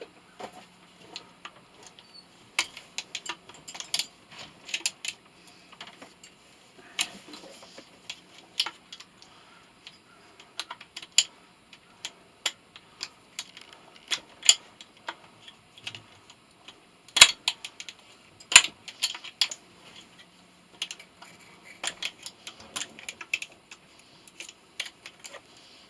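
Irregular metallic clicks, taps and clinks of hand tools working on scrap metal parts while prying copper out, with two louder knocks a little past the middle. A faint steady low hum runs underneath for part of the time.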